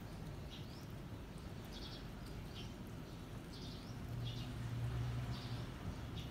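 Small birds chirping, short high chirps repeating about once a second. A low hum swells for a second or so a little past the middle.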